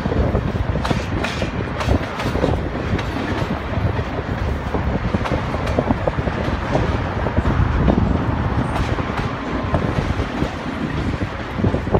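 Double-stack intermodal container train's well cars rolling past, their steel wheels rumbling on the rails with irregular clicks and clacks over the track.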